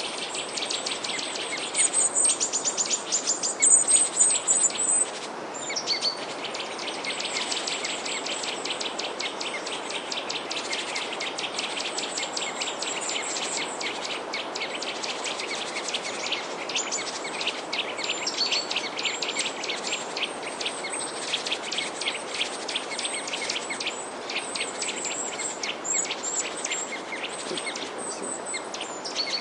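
A flock of small birds chirping and twittering in rapid, dense bursts, with a louder run of high chirps a few seconds in, over a steady background hiss.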